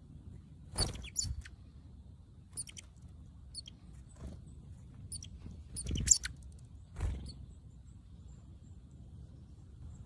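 Small wild birds giving brief, high chirps, about a dozen scattered through, loudest around six seconds. Some chirps come with dull low thumps close by, at about one, six and seven seconds.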